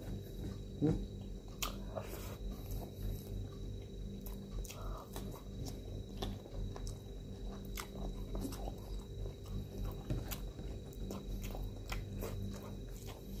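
Close-up mouth sounds of a person eating rice and shrimp with his hands: soft chewing and lip smacks, with small irregular clicks scattered throughout.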